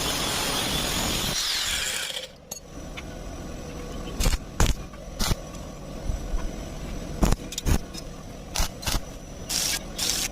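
A power tool, an angle grinder, runs on steel angle iron and stops about two seconds in. Scattered sharp metal knocks and taps follow, with several short hissing bursts near the end.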